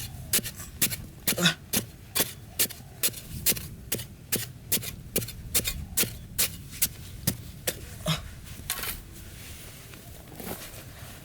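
A hand tool striking over and over in an even rhythm, about two sharp knocks a second, stopping about eight seconds in. One more knock comes near the end.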